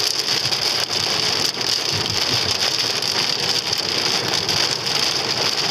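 Steady hiss with a low rumble inside the cabin of a stationary Hyundai Sonata, its engine idling.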